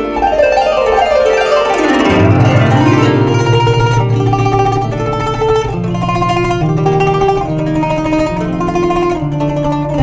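Kanun, the Turkish plucked zither, playing: a fast run of falling notes in the first two seconds, then a picked melody over a low held note.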